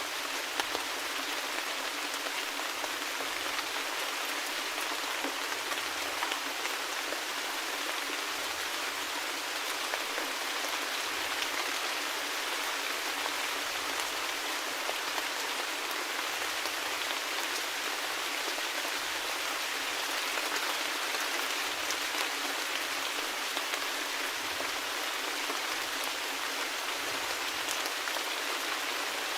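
Steady rainfall, an even hiss of rain with many small drop ticks.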